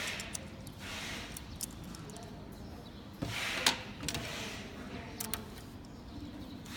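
Handling noise from working on a machine's parts: scattered small clicks and short scraping or rustling sounds, with a louder scrape ending in a sharp click about three and a half seconds in, over a low steady hum.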